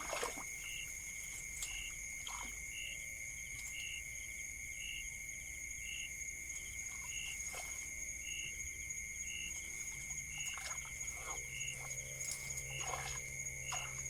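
Night chorus of insects, a steady high trilling that runs on, with a short call repeating about once a second. Scattered faint clicks and rustles, and a low hum joins about ten seconds in.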